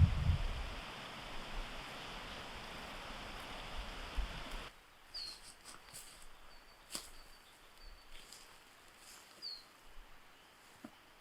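Wind and rustling noise, with gusts buffeting the microphone at the start. After a sudden cut it drops to a quiet outdoor background with a few short, high bird chirps and faint clicks.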